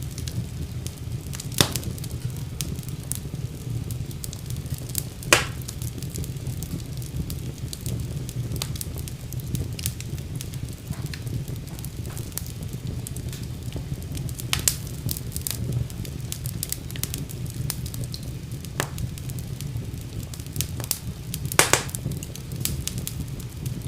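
Fire burning in a fireplace: a steady low rumble of flame with scattered crackles and a few sharp pops, the loudest about 5 seconds in and near the end.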